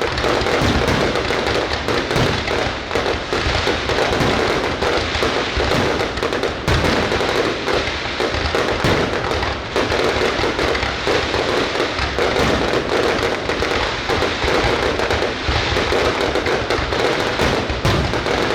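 Fireworks going off in a dense, continuous barrage: many bursts and crackles overlap without a pause.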